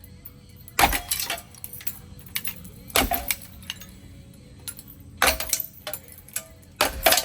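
Metal parts of an old Bridgeton ceiling fan being knocked about and handled: five or six sharp clanks, each with a brief metallic ring, spread out with short pauses between them.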